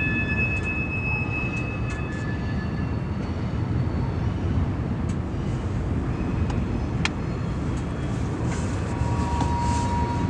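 Freight train of tank cars rolling past with a steady low rumble of wheels on rail. Thin high wheel squeals sound near the start and again near the end, and there is one sharp click about seven seconds in.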